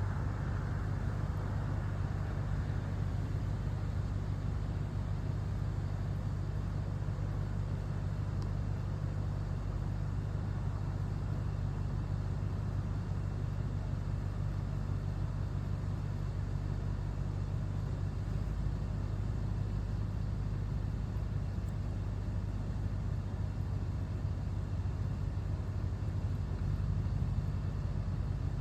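Steady low mechanical hum, unchanging throughout, over a faint even outdoor hiss.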